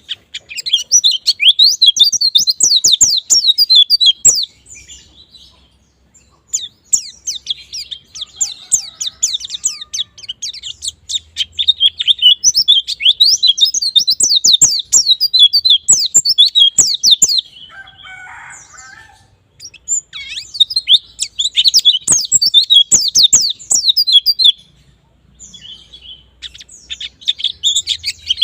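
A white-eye (pleci) singing in long phrases of rapid, high, quickly falling notes, broken by short pauses of a second or two. A brief lower, scratchy chatter comes in about two-thirds of the way through.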